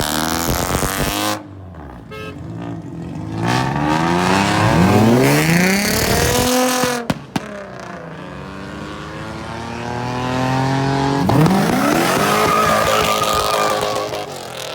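Car engines revving hard at a car show, pitch climbing and falling back several times, with two sharp cracks about halfway through.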